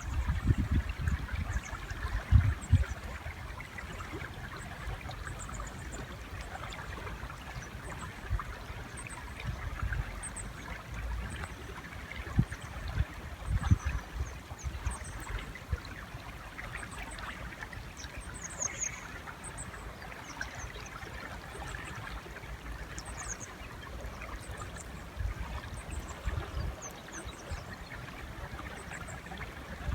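River water flowing steadily, with short high bird chirps scattered throughout and a few low thumps, mostly in the first seconds and around the middle.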